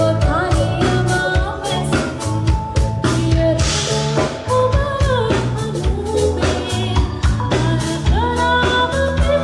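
Live band music: a woman singing a Sinhala love song, her voice gliding between held notes, over a steady drum-kit beat and bass.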